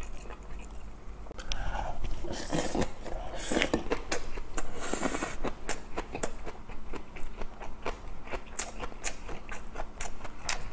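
A person chewing a mouthful of grilled mackerel: wet mouth clicks and smacks, several a second, with a few louder, noisier bites in the first half.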